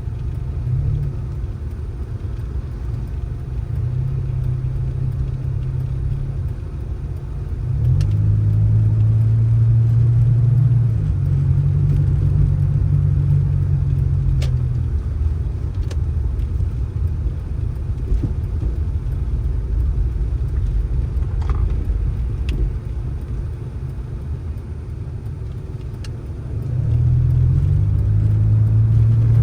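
A motor vehicle's engine running steadily, picking up revs and getting louder about eight seconds in and again near the end. A few faint clicks.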